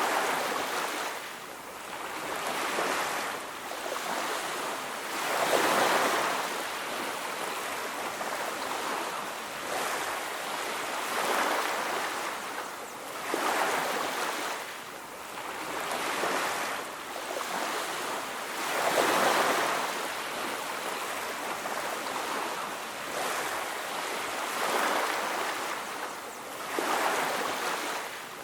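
Ocean waves breaking and washing on a beach, a steady surf that swells and falls back every few seconds.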